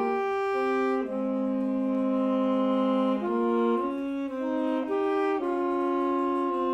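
Alto saxophones playing a slow passage of long held notes in harmony, the chord changing every second or two.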